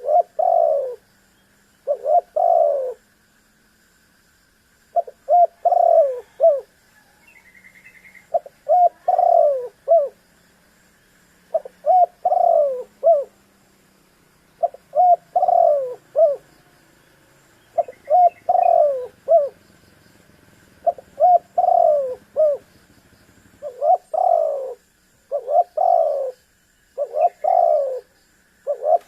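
Spotted dove (tekukur) cooing over and over, a phrase of three or four quick coos every two to three seconds, about a dozen phrases in all. A few faint high chirps are heard now and then between them.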